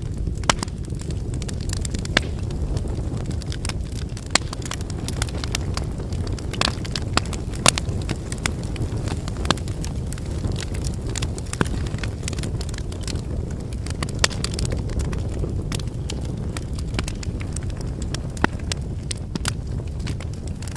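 Wood fire burning: a steady low rumble of flames with continual crackling of the burning firewood and a sharper pop every couple of seconds.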